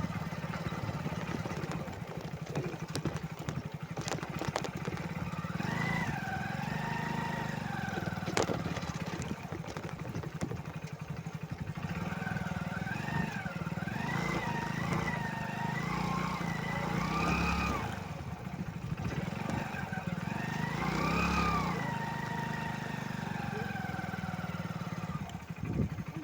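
Motorcycle engine running steadily under way. Wavering, high-pitched tones rise and fall over it three times.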